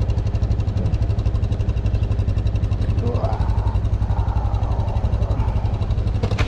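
BMW R nineT's boxer twin engine running steadily under way, heard from the rider's seat. A fainter sound rises and falls in pitch in the middle.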